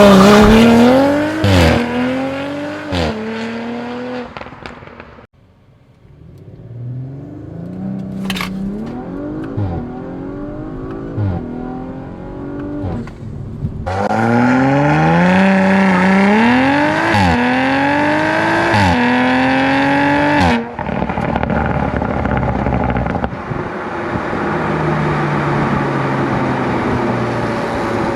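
Audi RS5's 2.9-litre twin-turbo V6, on a Stage 2 tune with aftermarket downpipes and the factory sport exhaust, accelerating hard through several quick upshifts, its pitch climbing and dropping back at each shift. Several separate runs are cut together, and the last few seconds settle into steadier running.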